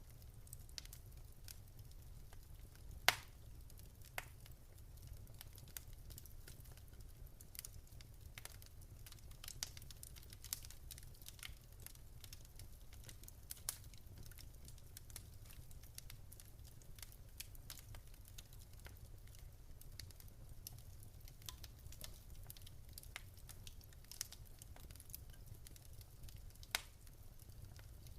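Wood fire in a fireplace crackling: scattered small pops and snaps at irregular intervals, with one sharper pop about three seconds in, over a low steady rumble.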